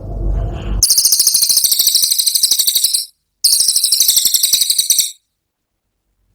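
A cililin's 'tembakan' song: a very high, very rapid rattling trill in two bursts of about two seconds each, with a short break between them. A low rumble comes before it.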